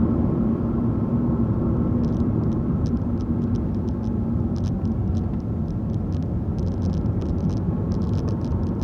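Car driving, heard from inside the cabin: steady engine and tyre rumble with a low hum. Faint, irregular light ticks begin about two seconds in and grow more frequent near the end.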